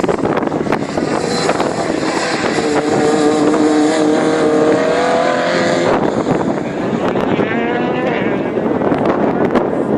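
Rally car engine revving hard under acceleration, its pitch climbing for about three seconds before cutting off sharply about six seconds in, then climbing again briefly.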